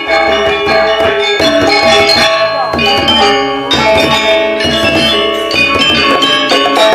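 Balinese gamelan ensemble playing a tabuh kreasi: metallophones struck in fast runs of ringing metallic notes.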